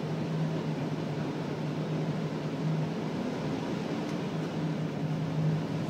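Diesel train running steadily on the line, heard from on board: an even rushing noise with a steady low hum.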